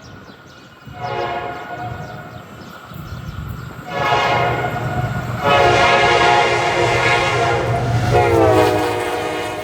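Diesel train's multi-tone horn sounding in several blasts: a short one about a second in, another about four seconds in, then a long one that drops in pitch near the end. A low engine rumble runs underneath.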